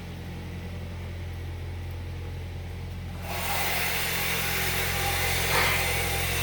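2012 Kia Optima's 2.4-litre four-cylinder engine idling steadily with a low, even hum. About halfway through, a louder hissing whir comes in suddenly and stays, while the idle beneath it holds the same speed.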